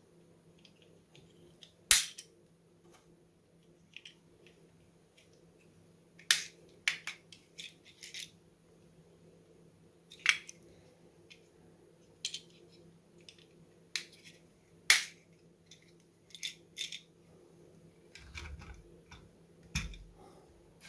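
Small plastic LEGO pieces clicking and tapping as they are handled and fitted onto a model: scattered sharp clicks a few seconds apart, softer ticks between them, and a few soft low knocks near the end.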